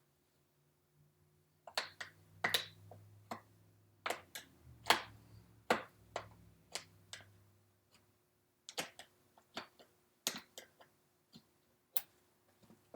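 Irregular sharp clicks and snaps of a metal tack strip being pried up from the wooden wing frame of a recliner back with a thin tool. The clicks come in uneven clusters, starting about a second and a half in.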